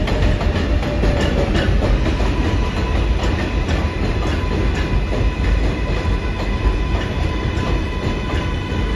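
New York City Subway 7 train running on the rails: a loud, steady rumble with the clatter of wheels over rail joints.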